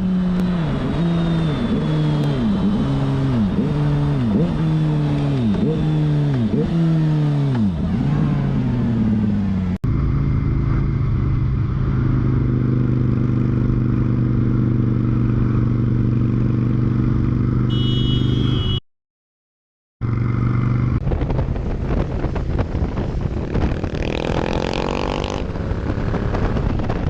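Motorcycle engine accelerating hard, its pitch climbing and dropping back about once a second as it shifts up through the gears. After a cut, a motorcycle runs at steady revs, then a noisier stretch of engine and wind follows.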